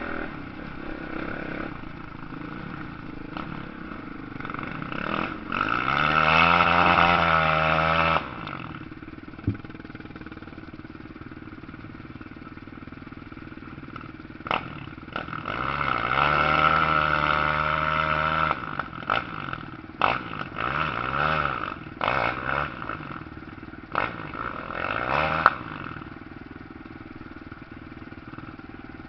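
Motocross bikes revving on the track. The engines come loudest in two stretches of about two to three seconds each, one about a quarter of the way in and one just past the middle, with the pitch rising and falling. Quieter engine noise and a few sharp knocks fill the time between.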